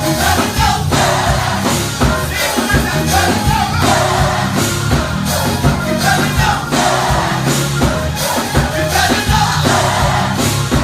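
Live gospel choir singing with a full band: a steady bass line and drum beat under massed voices.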